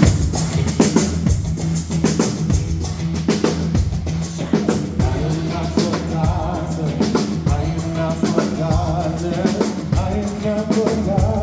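Gospel band playing the song's groove, with drum kit and bass keeping a steady beat; voices begin singing about halfway through.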